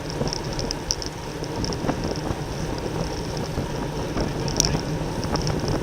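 Wind rushing over the microphone of a camera riding on a racing bicycle at speed, a steady rough rumble. Faint, irregular light ticks run throughout, with one sharper click near the end.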